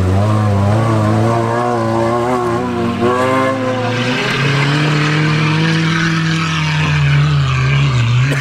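Maruti Gypsy's engine revving under load on sand, its pitch rising and falling for the first few seconds, then holding a steadier note with a hiss over it.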